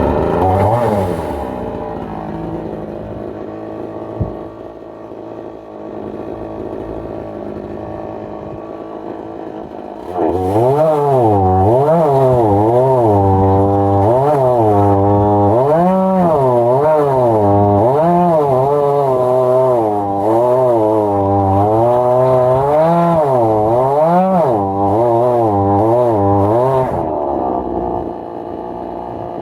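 Chainsaw engine, just started, idling for about ten seconds, then at full throttle cutting along a log in a chainsaw mill for about seventeen seconds, its pitch rising and falling as the load changes, then easing back to idle near the end.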